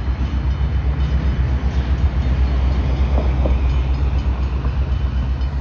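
Freight train running past, a steady low rumble.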